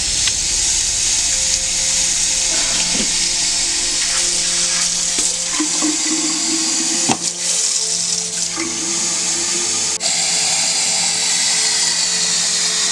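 Water running hard from a tap into a container as it fills, its pitch rising slightly near the end.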